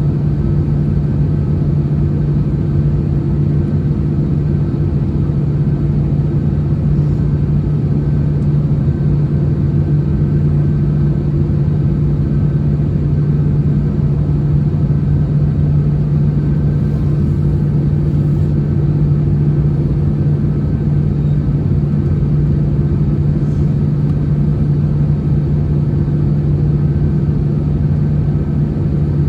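Steady cabin drone inside an Airbus A321 taxiing on the ground after landing, with a constant low hum and rumble that does not change.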